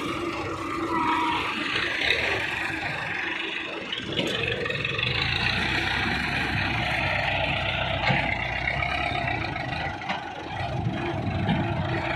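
Heavy diesel engine running steadily under load while soil is loaded into a tractor trolley.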